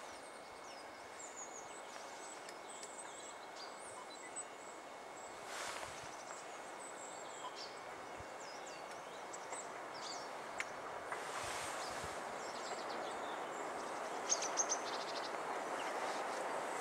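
Small birds chirping and calling in short, high notes over a steady rushing background noise that slowly grows louder.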